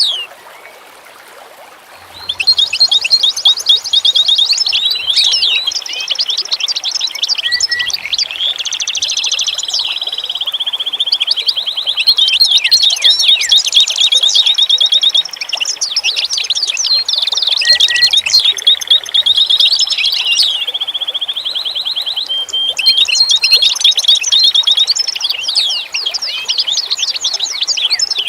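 Several songbirds singing at once, a dense chorus of quick chirps and fast trills. It starts about two seconds in, after a short near-quiet gap.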